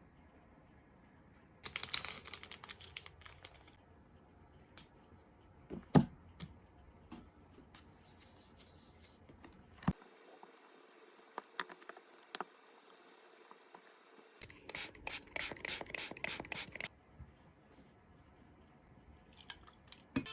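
Small handling sounds in a quiet room: scattered clicks and taps, a sharp knock about six seconds in, and a quick run of short scratchy strokes about three-quarters of the way through.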